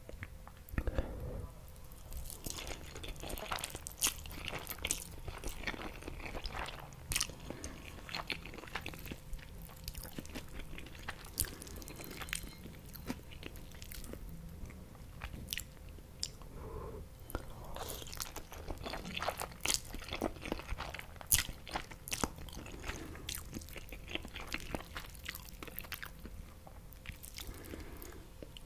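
Close-miked chewing and biting of green spaghetti and fried jack mackerel fillet: wet mouth sounds with many short, crisp clicks and crackles.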